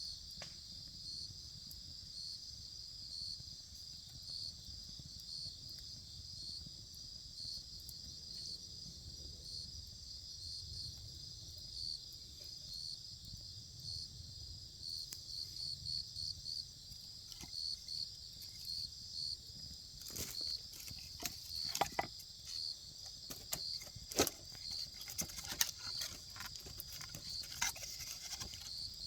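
Wood fire burning with crackles and pops, sparse at first and coming thick and sharp in the second half, over a steady high chirring of insects that pulses evenly.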